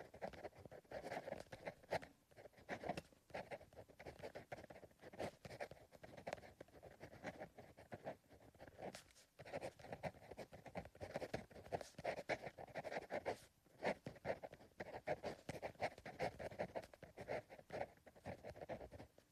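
Soft sound of a pencil writing on paper: continuous scratching strokes with small taps, pausing briefly about nine seconds in and again around thirteen seconds.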